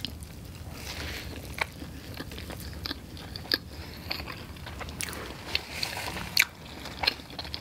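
A person biting into and chewing a McDonald's McGriddle breakfast sandwich: a bite right at the start, then chewing with many short, scattered mouth clicks and smacks.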